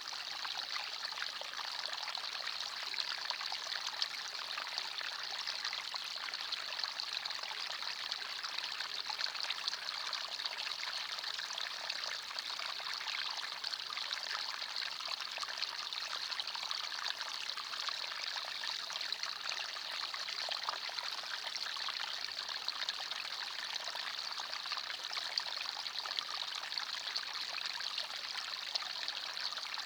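Forest stream flowing and trickling over stones, a steady, bright babble of small splashes with no pauses.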